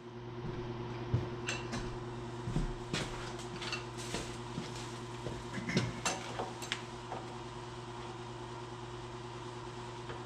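Scattered metal clinks and knocks, like tools being picked up and handled, over a steady hum in a workshop. The clinks thin out after about seven seconds and leave only the hum.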